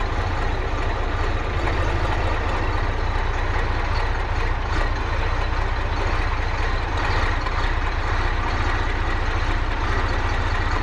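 The diesel engine of a 1981 Allis-Chalmers 7045 tractor running steadily, with wind buffeting the microphone in a low rumble.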